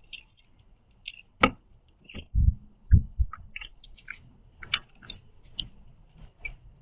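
Northern cardinal cracking sunflower seeds with its beak on a plastic feeding tray: a run of irregular sharp clicks and cracks, with a few heavier knocks against the tray around the middle.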